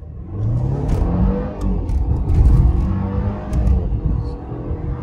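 A 2021 Mercedes C300's turbocharged four-cylinder engine under full-throttle acceleration from a brake-boosted launch, heard from inside the cabin. The engine note climbs in pitch, drops back at an upshift and climbs again.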